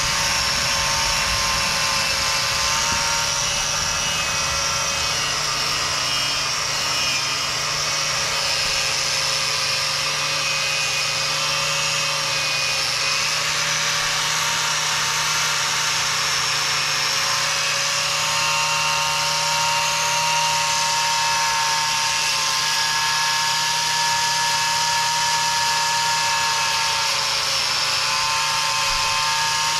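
Angle grinder with a stiff wire cup brush running continuously, a steady whine that wavers slightly in pitch over a hiss, as it scrubs old undercoat off the machine.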